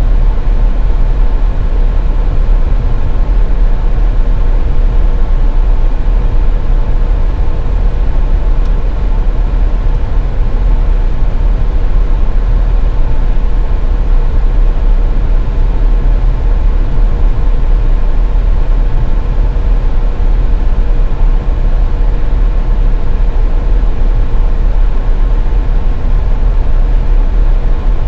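Steady low rumble of a car driving at highway speed: tyre and engine noise, with a faint steady whine running through it.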